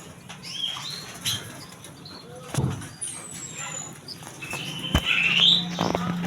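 Cucak ijo (greater green leafbird) singing a varied song of high whistles that slide downward and quicker chirps and trills. A steady low engine hum comes in toward the end.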